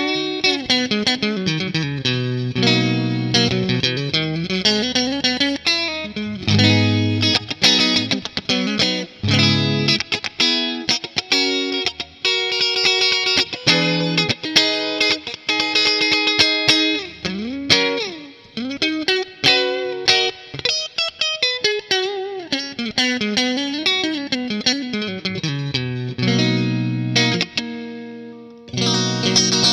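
LTD ST-213 electric guitar played through effects with some distortion: a busy passage of picked notes with fast runs climbing and falling in pitch, and held notes between them.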